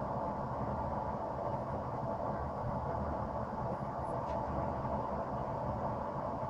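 A forge running with a steady rushing noise and a low rumble beneath it, no hammer blows.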